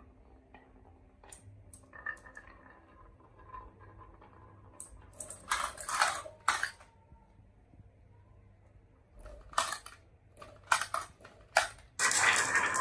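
Marbles clicking and rattling down a marble run: scattered single clicks, two short bursts of clattering in the middle, then a dense continuous clatter starting near the end as many marbles pour down together.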